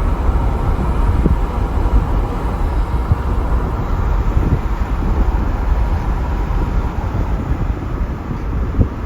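Steady low rumble of a moving vehicle: running and road noise with no clear changes, plus a few faint knocks.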